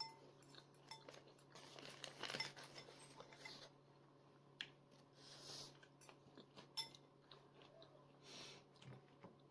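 Faint chewing and eating sounds of Maggi instant noodles: soft wet mouth noises with a few sharp clicks scattered through.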